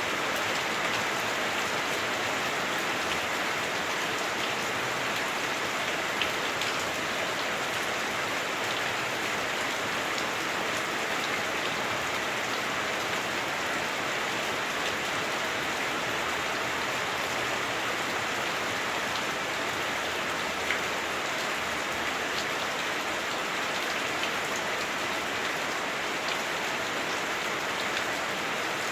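Heavy rain drumming steadily on a house roof, heard from inside, a dense hiss with a few sharper drop hits.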